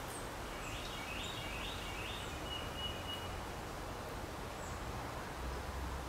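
A songbird singing a short phrase of about four clear notes that runs into a thin, steady high note, over steady outdoor background noise.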